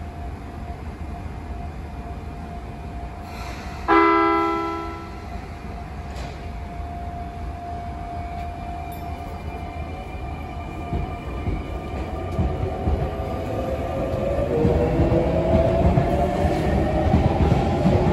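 Sotetsu electric train gives one short horn toot about four seconds in, a service horn from the driver greeting the cheering child. From about twelve seconds in, the train's motors whine rising in pitch and grow louder as it accelerates away.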